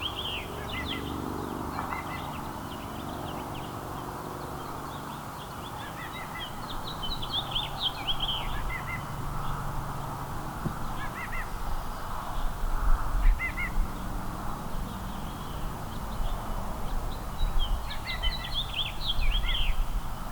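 Small songbirds chirping and twittering in short, quick bursts every few seconds, over a steady outdoor background hiss. A low rumble builds up in the second half.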